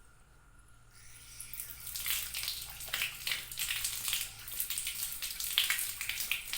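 Running water splashing, building up about a second in and going on steadily.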